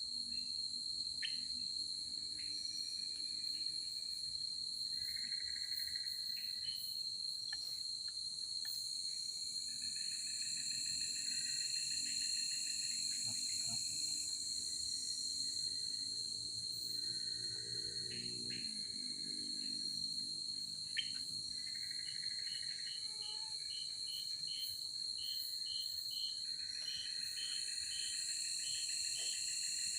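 Forest insects calling: one steady, unbroken high trill, with another insect's buzzing call coming and going in short bouts that turn into rapid pulses near the end. A few faint clicks are scattered through it.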